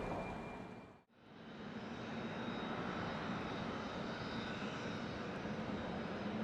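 Steady jet aircraft engine noise with a faint high whine. The sound drops out briefly about a second in and fades back up.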